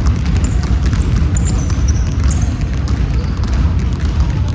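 Indoor court game sounds: a ball bouncing on a hard gym floor with repeated thuds and clicks, a few short high sneaker squeaks, over a loud low rumble of the hall.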